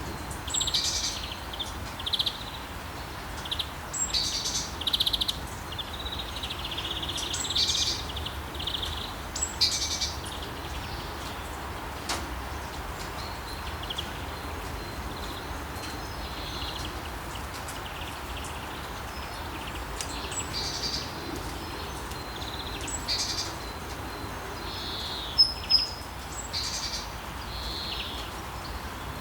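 Steady rain hiss with songbirds chirping over it. The chirps come thick in the first ten seconds, thin out, and pick up again after about twenty seconds, with two sharp loud chirps near the end.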